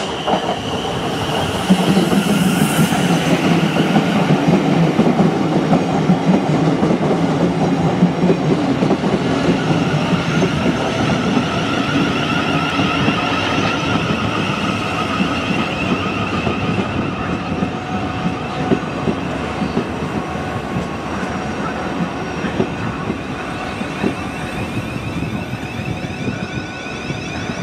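A train running close past, its wheels rumbling and clattering over the rails. It is loudest in the first few seconds and slowly fades.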